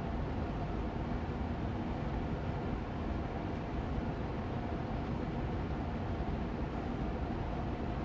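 Air purifier fan running steadily on medium speed: an even rushing air noise with a low hum.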